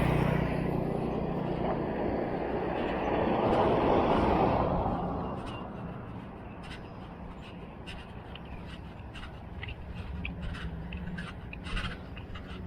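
A motor vehicle passes by, its engine and road noise swelling to a peak about four seconds in and fading away by about six seconds. After that it is quieter, with scattered light clicks.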